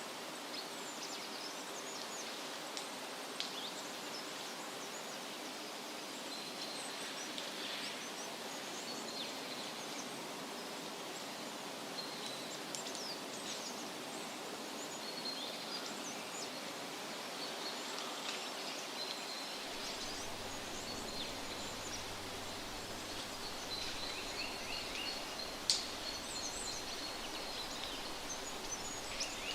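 Woodland ambience: a steady rustle of wind through leaves with many small birds chirping and trilling throughout, and a single sharp click near the end.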